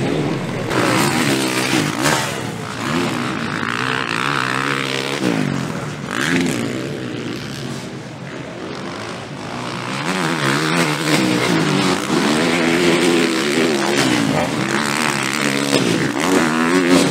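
Several motocross bikes racing on the track, their engines revving up and down through the gears. The sound dips about halfway through and builds again toward the end.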